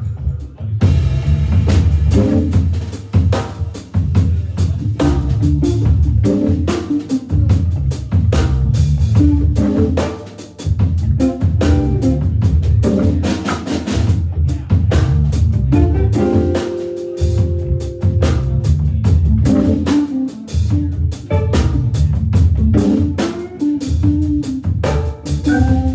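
Hammond organ trio playing a jazz-funk groove live: a busy drum kit with snare and rimshots to the fore over organ bass and chords, with a chord held for about two seconds past the middle.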